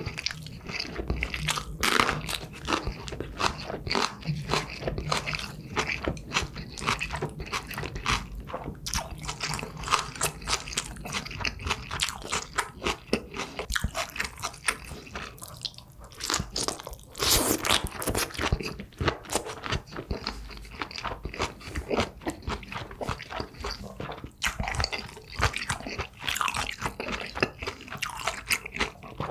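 Close-miked chewing and biting of food, with many crisp crunches coming thick and irregular throughout.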